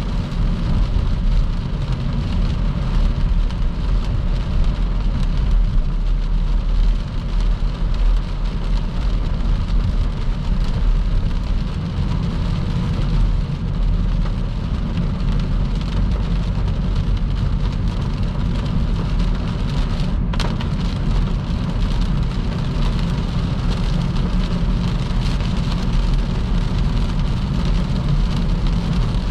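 Car driving on a wet motorway in heavy rain: a steady low rumble of tyres and road under a hiss of rain and spray.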